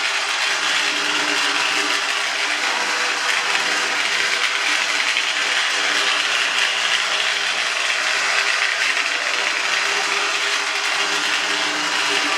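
A 1963 Lionel Scout toy locomotive running steadily along its track: a continuous whir of its small electric motor and gears, with the wheels rolling on the rails. It runs quickly with freshly cleaned wheels.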